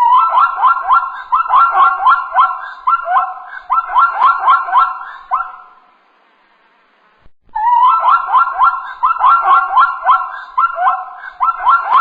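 An animal calling in a quick run of repeated yelping notes, several a second, for about six seconds. After a short gap the same run of calls starts again.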